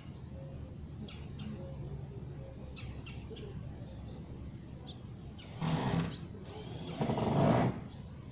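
A small bird giving a few faint, short chirps, spread a second or two apart. Two louder bursts of noise, each under a second long, come in the second half and are the loudest sounds, over a steady low hum.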